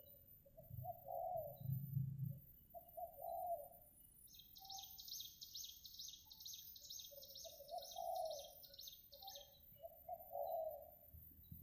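Spotted dove cooing in a run of soft, repeated low phrases. A high, fast trill joins from about four seconds in and stops about halfway through.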